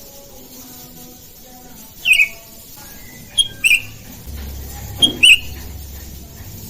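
Sooty-headed bulbuls (kutilang) calling back and forth: short, sharp notes that drop slightly in pitch, one call about two seconds in, then two quick pairs about a second and a half apart.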